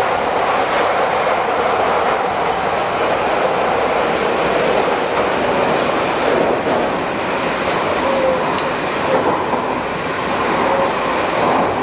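Tokyu 8500-series electric train running along the line, heard from inside the car: a steady rush of wheel and rail noise with faint rail-joint clatter.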